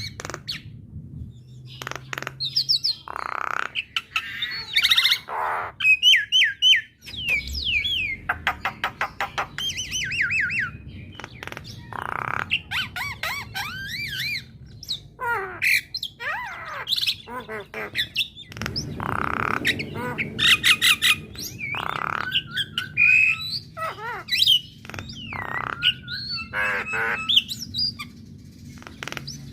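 Female Javan myna singing a long, varied run of harsh squawks, whistled glides and rapid runs of chattering notes.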